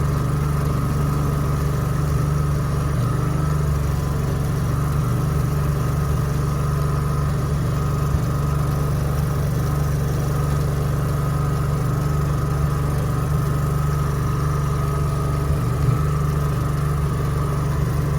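Portable generator engine running steadily, a constant low hum with a faint steady whine above it.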